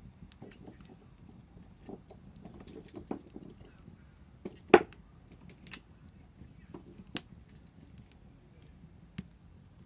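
Wood fire crackling, with scattered sharp pops and snaps; the loudest snap comes about halfway through.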